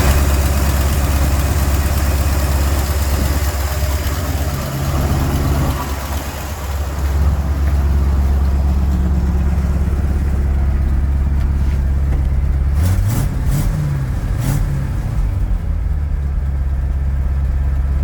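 Vintage truck engine running at a steady idle on a rebuilt Holley 500 two-barrel carburetor with Pertronix electronic ignition and Flame-Thrower coil. Its note rises and falls briefly about two-thirds of the way through.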